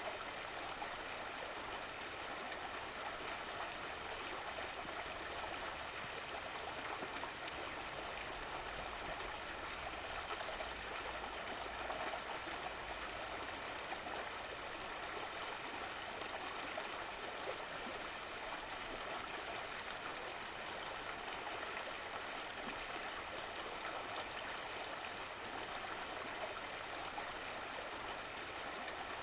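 A stream of running water flowing steadily, a continuous even rush.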